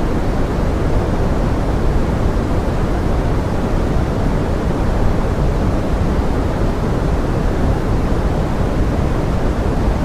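Steady pink noise blended with forest rain: an even, bass-heavy hiss with no separate sounds standing out.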